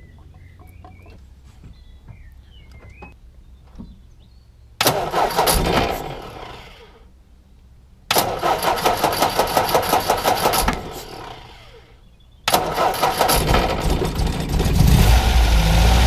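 MGB GT engine being cranked on the starter three times. The first two tries, about a second and a half and two and a half seconds long, die away without catching. The third catches about two seconds in and runs on, louder and steady.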